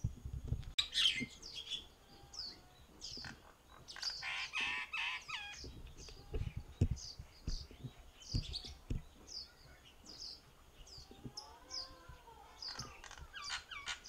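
Birds calling: short high chirps repeat throughout, with louder harsh chattering calls about a second in and again around four to five seconds in, and a few gliding whistled notes near the end.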